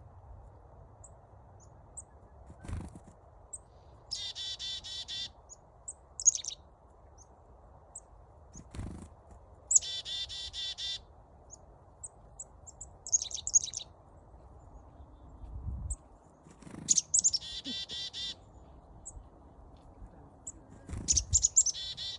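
Chickadees calling: three runs of rapid, buzzy 'dee-dee-dee' notes, each about a second long, with short high chips and sweeping 'chick-a' notes between them. Several dull thumps come in between the calls.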